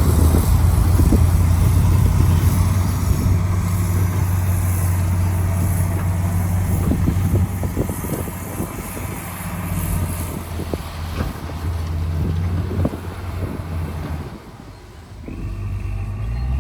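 Heavy diesel earthmoving machinery running, with scattered clanks and knocks. The engine drone fades over the first half and drops away briefly near the end. Then another engine comes in with a steady high tone.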